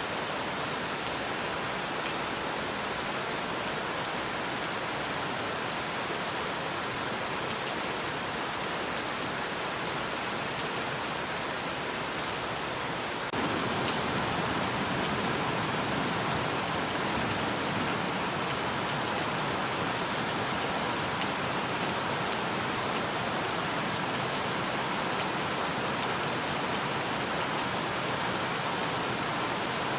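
Rain falling steadily as a continuous hiss of drops; it turns suddenly louder and fuller about 13 seconds in and stays so.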